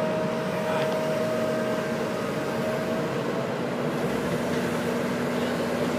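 Heavy diesel truck or tree-removal machinery engine running steadily, a continuous rumble with a steady hum whose note drops lower about halfway through.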